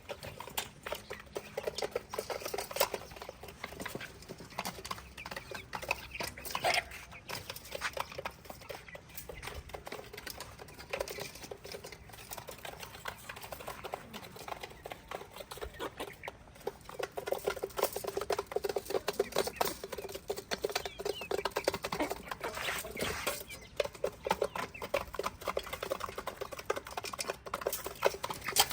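Dense, irregular light tapping and scratching of small chicks pecking and scrabbling on a hard surface, busier in the second half.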